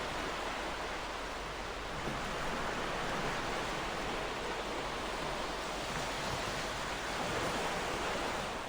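Ocean surf: a continuous wash of waves breaking on a shore, swelling and easing gently, with no single distinct wave crash.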